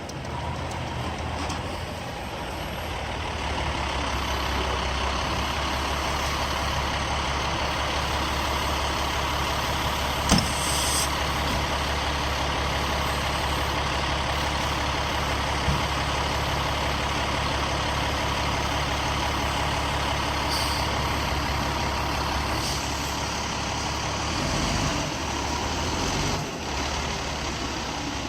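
Fire engine's diesel engine running steadily at low speed, with a sudden loud pneumatic hiss of the air brakes about ten seconds in and shorter air hisses later on.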